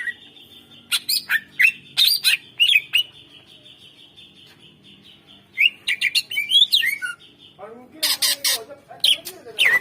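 Green leafbird (cucak ijo) singing in bursts of sharp whistled notes and quick pitch glides, with harsher rasping calls about eight seconds in. A faint steady high tone runs underneath.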